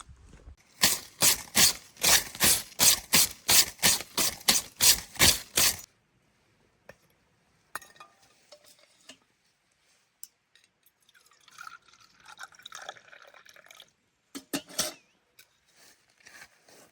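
A rapid series of about fourteen sharp, even strikes, nearly three a second, stopping suddenly; later a few scattered knocks and a short rough, rustling sound.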